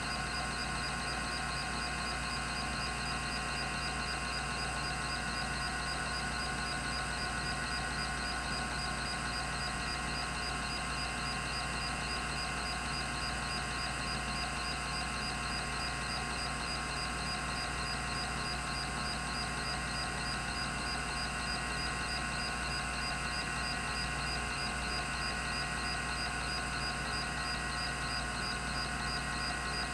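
Rodime RO352 3.5-inch hard disk drive spinning steadily at 3600 RPM, a constant whine made of several steady tones with a faint hum, with no seek clicks.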